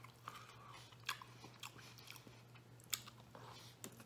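Close-up chewing of a mouthful of sandwich, with scattered soft wet clicks and smacks of lips and tongue. A steady low hum runs underneath.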